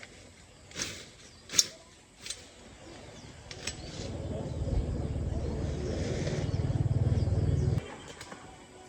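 A few sharp knocks, then a small engine running with a low, fast-pulsing rumble that builds up over about four seconds and cuts off suddenly near the end.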